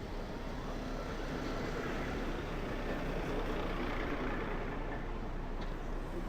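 Steady street traffic noise from passing motor vehicles, swelling a little around the middle.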